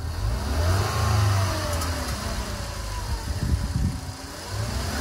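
2012 Ford Explorer's 2.0-litre EcoBoost turbocharged four-cylinder revved once, its pitch rising then falling slowly as the throttle is let off, with a second rev starting near the end. This is a deceleration test for the rattle from a worn, loose turbo wastegate flapper valve.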